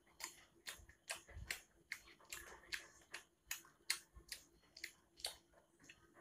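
A person chewing food close to the microphone, with sharp, irregular wet mouth clicks and smacks, about two or three a second.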